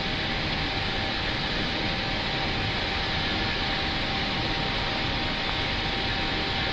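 Steady cockpit noise of an Airbus airliner in the climb: an even rush of air and air-conditioning hiss over the engines' hum, with faint steady tones.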